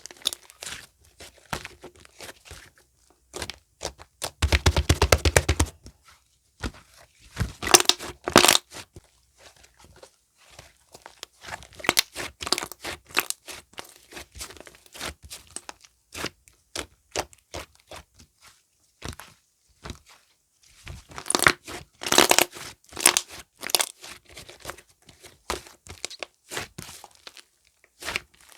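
Clay slime being squeezed, folded and stretched by hand, making crisp clicks and crackles in uneven runs, with a few dense bursts of rapid popping.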